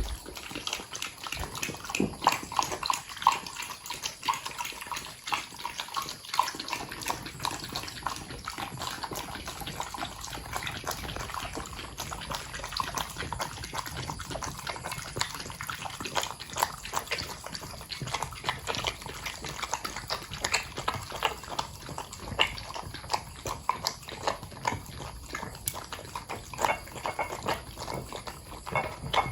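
Corgis lapping up a milk drink from their bowls: quick, irregular wet licking and tongue smacks against the bowl.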